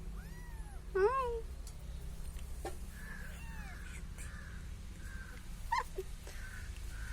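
Kitten meowing: about four short, rising-and-falling meows, the loudest about a second in.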